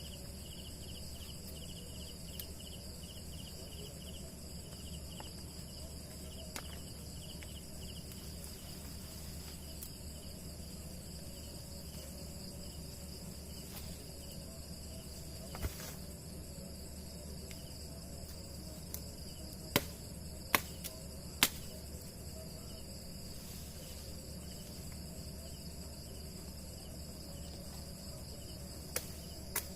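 Night chorus of crickets and other insects trilling steadily at several high pitches, with a pulsing trill in the first several seconds. A few sharp clicks or knocks stand out, three of them close together about two-thirds of the way in and a couple near the end.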